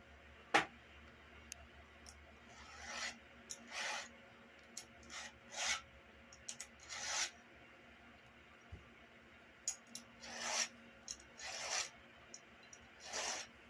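Hand file stroking across the cutter teeth of a Stihl MS170 chainsaw chain during sharpening: about eight separate rasping strokes with short pauses between them. A sharp click comes near the start.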